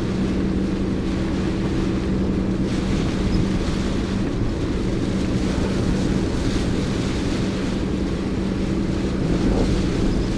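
Strong typhoon wind rushing and buffeting the microphone, with a steady low motor-like hum running underneath.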